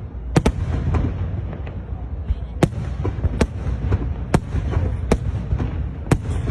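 Fireworks display: seven sharp bangs of shells bursting, the first two close together and the rest about a second apart, over a steady low rumble.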